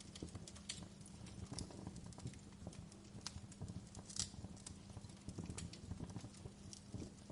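Wood fire crackling in a fireplace: irregular pops and snaps, the sharpest about four seconds in, over a low steady hum.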